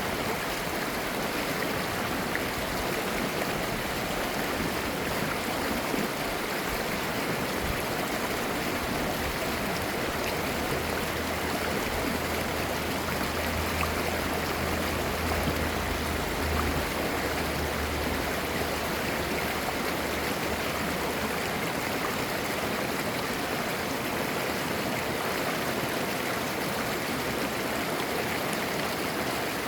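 Clear mountain stream babbling and gurgling steadily over rocks. A faint low hum sits under it for about ten seconds in the middle.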